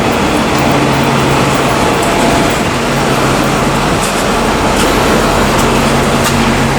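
Busy city street traffic: a steady wash of vehicle noise with a low engine hum running under it.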